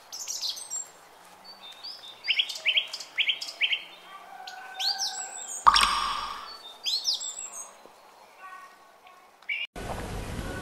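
Birds chirping in many short, quick repeated chirps, with a brief louder burst carrying a low rumble about halfway through. A steady hiss comes in near the end.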